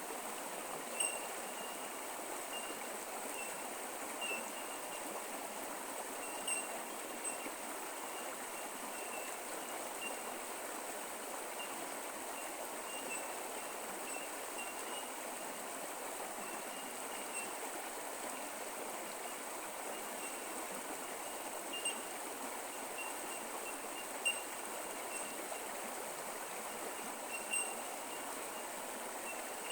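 Bush creek flowing steadily, a continuous rushing of water. Over it runs a thin, steady high-pitched tone, with scattered short high chirps, a few of them louder.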